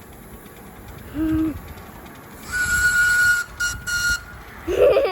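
A miniature live-steam locomotive's whistle sounding for about a second and a half, a steady high tone over a hiss of steam, broken briefly twice near its end. A short lower tone comes about a second in, and a brief, louder, lower sound near the end.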